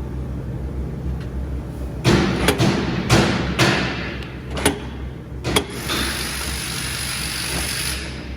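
A low steady hum, then a run of about six sharp knocks and clanks over three and a half seconds, followed by a steady hiss lasting about two seconds.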